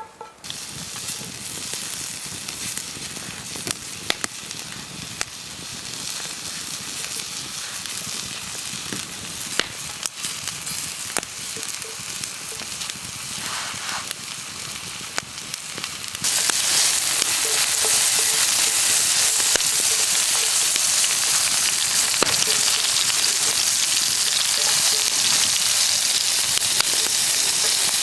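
Food frying in a pan over a campfire: a steady sizzle with scattered sharp pops and crackles. The sizzle gets suddenly louder about two-thirds of the way through.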